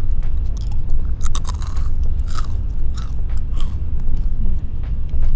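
A crisp snack being bitten and chewed close to the microphone: a run of sharp crunches, loudest and densest about one to two seconds in, then a few scattered crunches.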